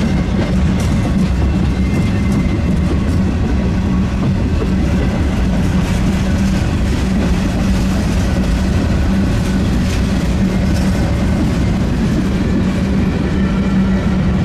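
Freight train of boxcars and covered hoppers rolling past: a steady loud rumble of steel wheels on rail, with scattered sharp clicks and faint high tones from the wheels.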